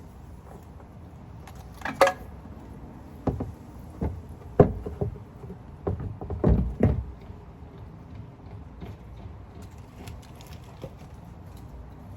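Scattered knocks and clunks of hand work with tools and parts while the oil filter is loosened and taken off: one sharp knock about two seconds in, then a run of clunks over the next few seconds, and quieter handling after that.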